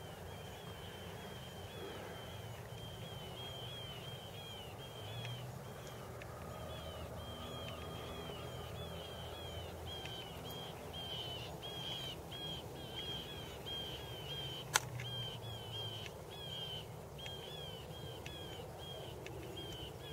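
Faint outdoor ambience: a bird calling a fast, even series of short high chirps, about three a second, over a low background rumble, with one sharp click about fifteen seconds in.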